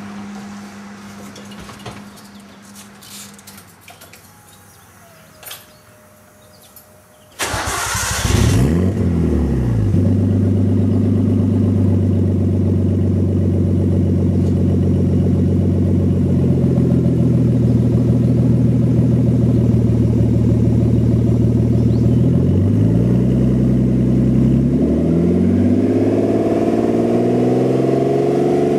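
Nissan RB20DET turbocharged inline-six with a Megan exhaust cranking and firing up about seven seconds in, after a few quiet seconds with faint clicks. It settles into a steady idle, and the engine speed climbs over the last few seconds as it is revved.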